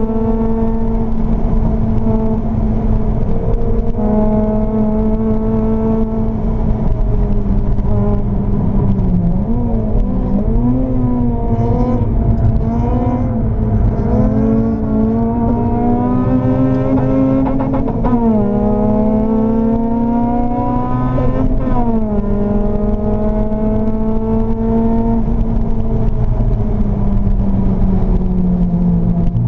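In-cabin sound of a Honda Civic Type R EP3's 2.0-litre four-cylinder K20 i-VTEC engine lapping a circuit at speed. The pitch holds, wavers down and up through a braking and downshifting stretch, then climbs hard twice with a sudden drop at each upshift, and settles back to a steady note.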